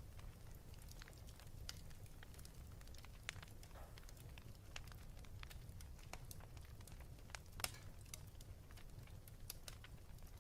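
Wood fire crackling in a fireplace: scattered irregular pops and snaps over a low steady rumble, with two sharper pops, one about three seconds in and one near eight seconds.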